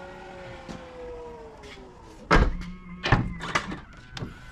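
Tahoe's electric power window motor whirring as the glass moves, its pitch dropping slightly before it stops about two seconds in. Then a heavy thunk and a few more knocks and thuds.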